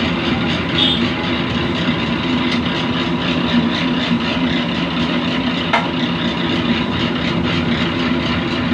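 Machinery running steadily with a constant hum and rattle, unchanging in pitch and loudness.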